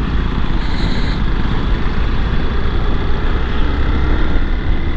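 Steady wind rumble on the microphone with engine and road noise from a motorcycle riding at highway speed.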